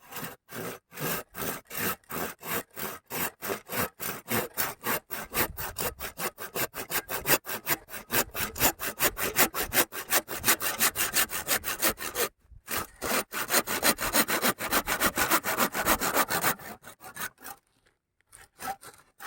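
Bamboo stalk being cut into sections with a hand saw: a long run of quick, even back-and-forth strokes, with a short break about twelve seconds in, stopping near the end after a few last strokes.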